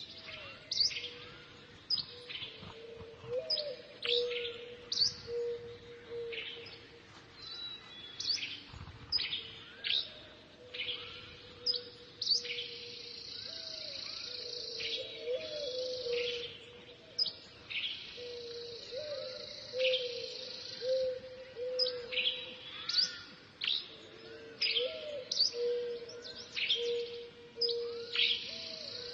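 Small birds chirping continually, with short sharp high calls repeated many times and a steady high buzzing trill in two stretches in the middle. A lower, steady, wavering tone runs beneath the calls.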